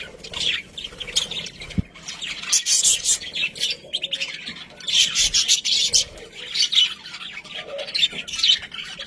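Budgerigars chattering, a steady run of rapid, high chirps and warbles with short harsh squawks.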